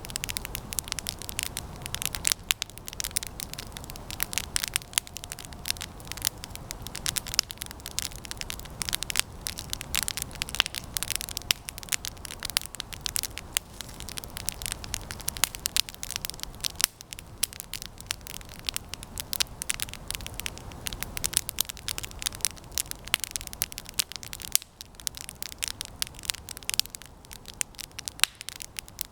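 Campfire of resinous pine branches burning, with a dense, steady crackle of sharp pops over the low rush of the flames.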